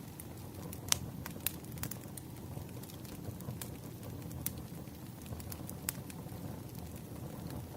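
Campfire crackling: a steady low rumble of burning wood with irregular sharp pops and snaps, the loudest about a second in.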